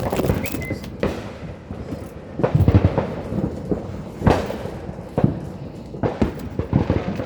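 Consumer fireworks going off in a string of bangs and pops about a second apart. The heaviest boom comes about two and a half seconds in, and a sharp bang follows just after four seconds.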